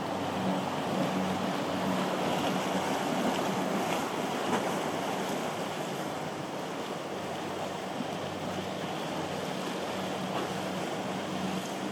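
Surf and rushing water in an ocean inlet with wind on the microphone, under the low steady hum of a boat's engines, strongest near the start and again from about eight seconds on.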